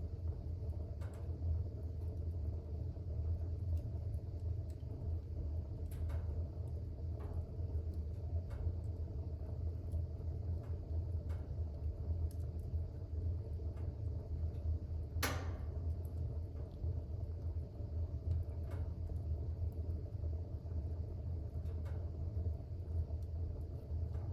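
Fire burning in a fireplace: a steady low rumble with scattered small crackles and one sharp, louder pop about fifteen seconds in.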